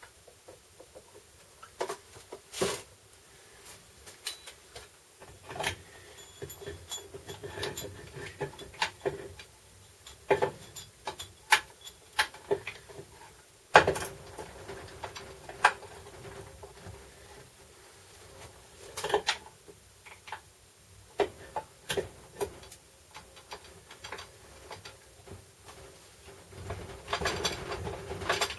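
Irregular clinks and knocks of metal hand tools and transfer case parts being handled during disassembly, with scattered sharp clicks and a few louder strikes, the loudest about halfway through, over a faint steady hum.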